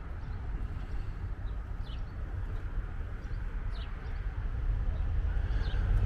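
Steady low outdoor rumble of traffic and wind, with a few short, falling bird chirps about a second apart. The rumble grows a little louder near the end.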